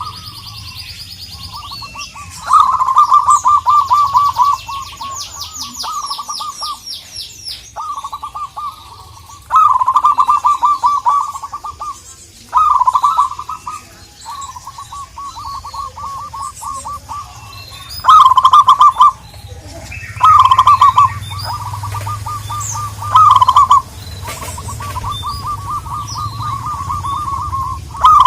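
Zebra dove (local perkutut) calling in repeated bouts of rapid staccato cooing notes, some loud and some soft. Thin high chirps from another small bird come through in the first few seconds.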